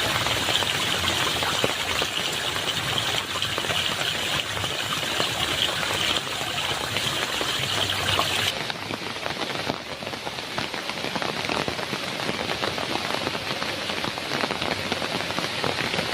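Heavy rain falling steadily on a metal roof, a dense hiss full of small drop impacts. About halfway through the sound changes abruptly and the highest hiss thins out, leaving the rain a little duller.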